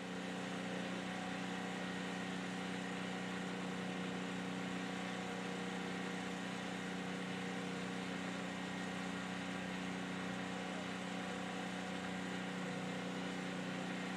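A machine's engine or motor running steadily at one constant speed, a even hum with no revving or load changes.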